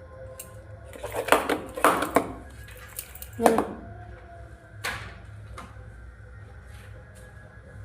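Utensil and cookware clatter: a quick cluster of knocks and scrapes about a second in, then single knocks near three and a half and five seconds, over a steady low hum.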